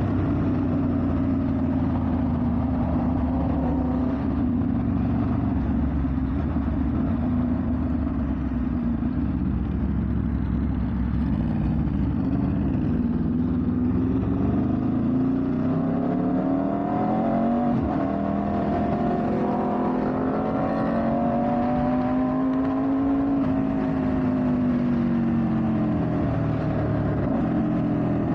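Aprilia RSV4 1100 Factory's V4 engine running while riding, steady at first, then dropping and climbing in pitch several times as the bike slows and speeds up.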